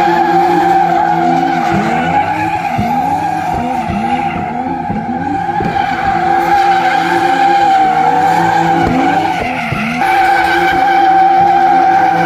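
Drift car's tyres screeching in a long, steady squeal while the engine is held at high revs, its note rising and falling over and over as the car slides.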